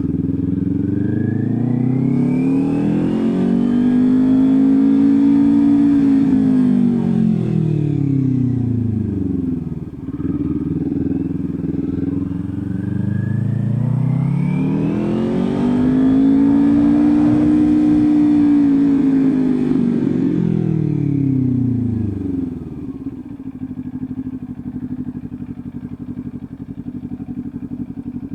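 Kawasaki Ninja 400's parallel-twin engine running, its pitch rising and falling twice in long smooth sweeps, then holding a steadier, lower note near the end.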